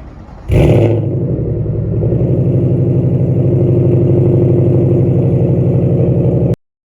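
Ford Mustang GT's 5.0 V8 catching about half a second in with a brief flare, then settling into a steady, loping idle through its aftermarket exhaust. It cuts off suddenly near the end.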